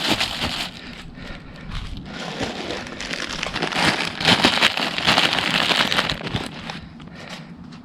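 Rain falling on a surface: a dense hiss of many fine drop impacts that grows louder about halfway through, then eases.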